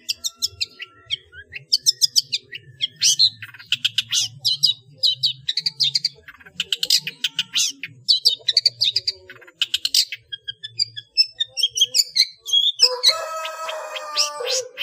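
Long-tailed shrike (cendet) singing a fast, dense run of sharp chirps and trills mixed with imitated calls of other birds. Near the end comes a longer, harsher call with several pitches at once.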